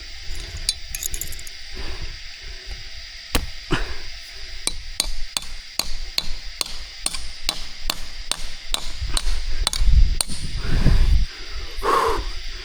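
Quick, even chopping strikes, about three a second, with a steady high-pitched tone underneath.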